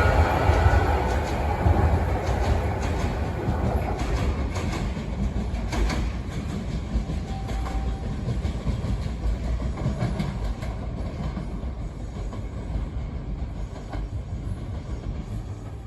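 A passing train moving away, its rumble fading steadily, with the wheels clicking over rail joints.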